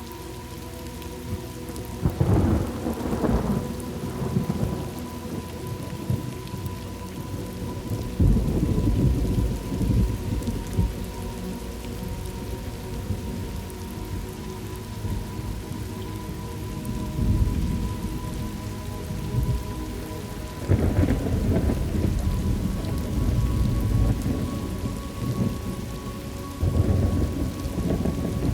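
Thunderstorm: steady rain falling, with several rolls of thunder rumbling up and dying away over it.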